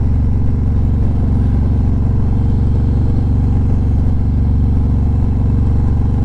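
Harley-Davidson touring motorcycle's V-twin engine running at a steady, even pitch while the bike cruises.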